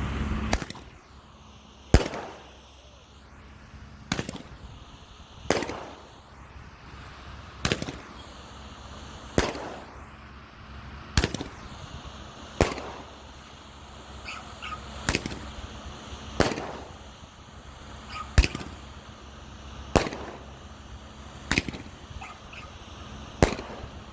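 Eight-shot 1-inch Roman candle firing: a string of sharp bangs every one and a half to two seconds, each followed by a short echo. These are the shots launching and the peony stars bursting with loud reports.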